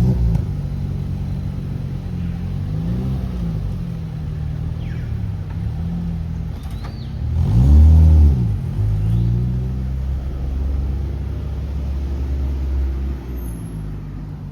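Car engine running with a deep rumble, its revs rising and falling several times, the loudest rev swell about eight seconds in.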